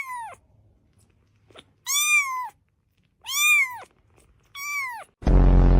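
A cat meowing: three drawn-out meows about a second and a half apart, each rising then falling in pitch, after the tail of one at the start. A loud low buzz begins near the end.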